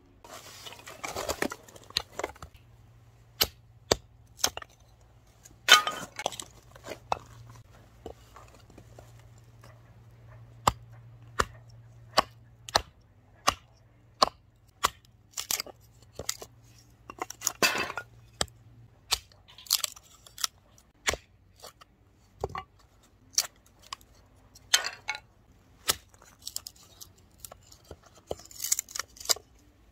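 Irregular clicks, knocks and short rustles of camping gear being handled and set up, several a second at times with brief pauses.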